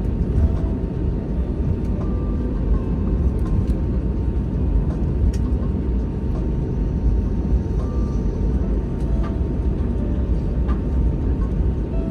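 Airbus A321 cabin noise while taxiing after landing: a steady low rumble from the engines and the wheels rolling on the taxiway, with a few faint clicks.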